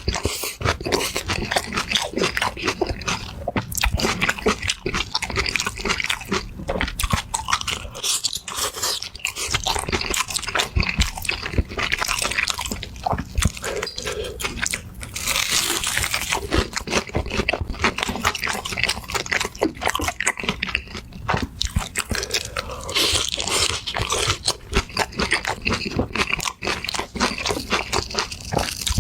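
Close-miked eating: crunchy bites into crisp food and steady chewing, full of irregular crackles.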